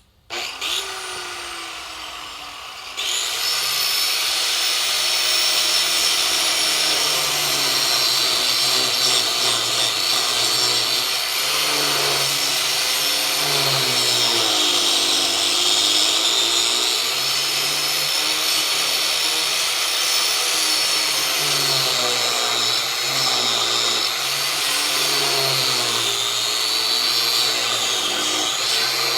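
Electric power tool running on horse leg bone, its motor pitch wavering up and down as the load changes. It starts about half a second in and gets louder about three seconds in.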